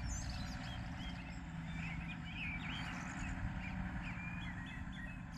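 Small birds chirping and calling over and over, over a steady low rumble.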